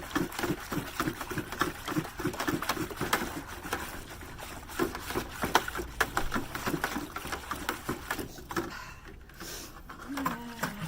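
A utensil stirring dye in a container: rapid rhythmic clicking and knocking, about four to five strokes a second, turning irregular after a few seconds and dying down near the end.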